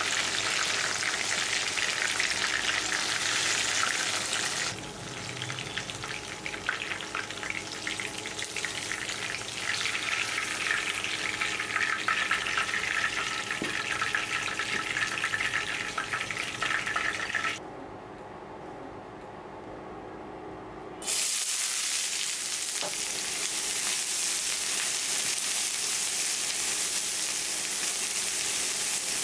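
Food sizzling in hot oil in a pan, a steady frying hiss that changes level in abrupt steps and goes much quieter for a few seconds past the middle before coming back.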